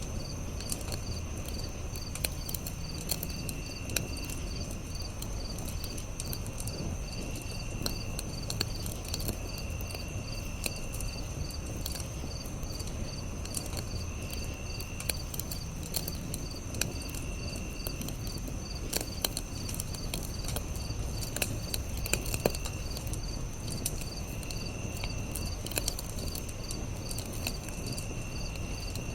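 Campfire crackling with scattered sharp pops and a low steady rumble, under a chorus of crickets: a steady high trill, a rapid pulsing chirp, and a lower trill that comes and goes in second-long spells.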